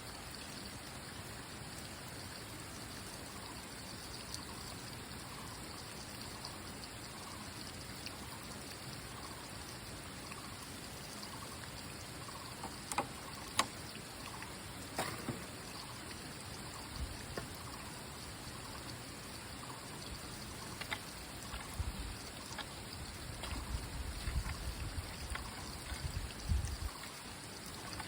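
Water trickling steadily, a gentle running-water sound, with a few sharp clicks about halfway and low bumps near the end.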